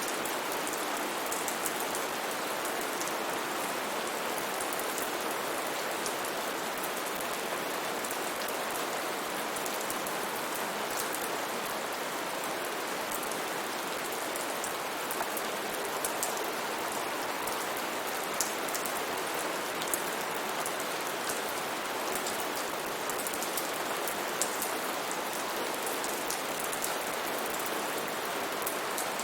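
Steady rain falling on a surface, an even hiss with scattered individual drops ticking sharply here and there.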